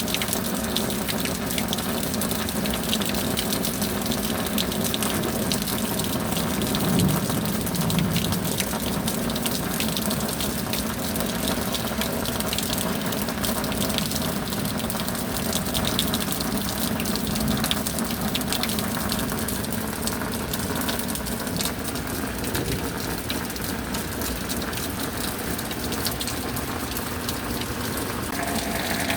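Steady rain, a continuous rush of falling water with many small drop ticks through it.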